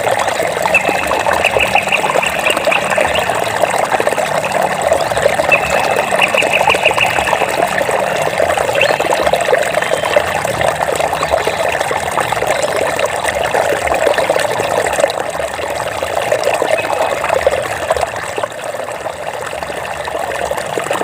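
Flowing water trickling and splashing steadily. A short, high, rapid trill is heard twice in the first third.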